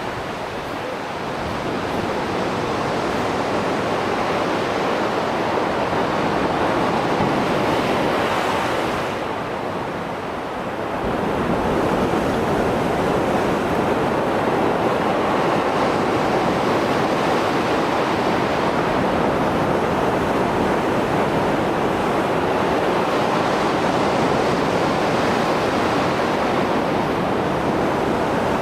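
Mediterranean sea surf after a storm: waves breaking and washing in a continuous loud rush, easing off briefly about ten seconds in before swelling again.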